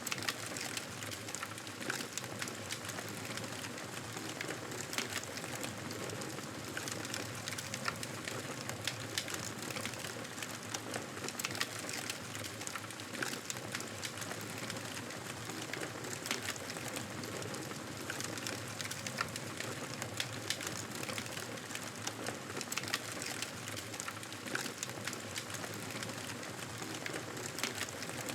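Fireplace wood fire crackling: a steady hiss with frequent small sharp crackles and pops.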